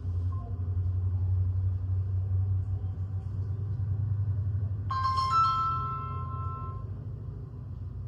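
Phone ringtone of an incoming video call: a bright electronic chime starts suddenly about five seconds in, steps up in pitch and rings for about two seconds. A steady low hum runs underneath throughout.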